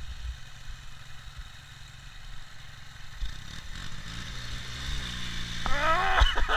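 Ural motorcycle's boxer-twin engine running at idle, a steady low burble that gets louder toward the end. A short higher sound that bends in pitch comes in near the end.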